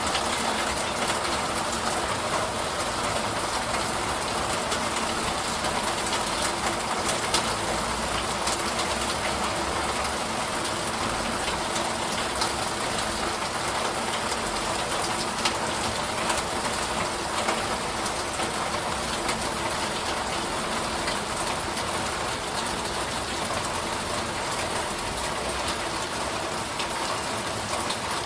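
Steady, heavy rain falling, an even rush with many individual drops ticking through it.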